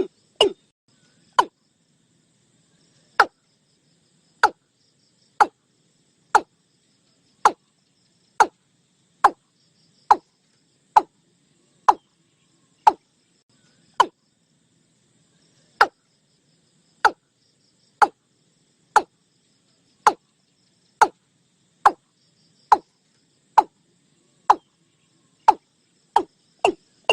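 Watercock (cúm núm) calling: a series of short, low notes repeated about once a second, quickening near the end.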